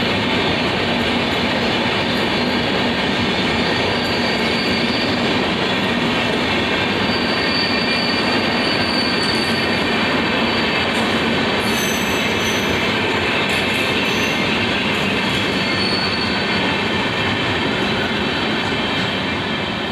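Passenger coaches of an express train rolling past close by: a steady loud rumble of steel wheels on rail, with short high-pitched wheel squeals coming and going. The noise eases slightly near the end as the last coach goes by.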